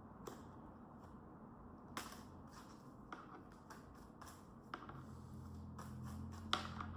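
Faint, scattered clicks and taps of tarot cards being shuffled and laid down. A low steady hum comes in about five seconds in.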